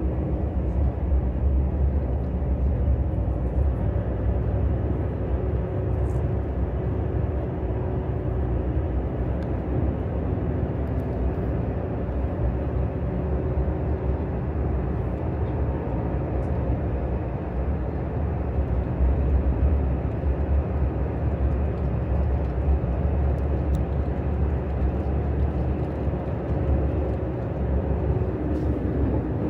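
KTX high-speed train running at speed, heard from inside the passenger car as a steady low rumble with a faint steady hum over it.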